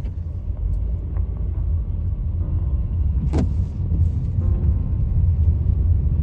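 Steady low road rumble of a car driving, heard from inside, with one brief sharp sound about halfway through.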